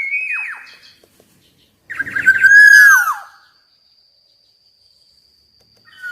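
Black-naped oriole singing. A downslurred whistle dies away just after the start, and about two seconds in comes a short, loud phrase of fluty whistles that slur down at the end. The next phrase begins near the end.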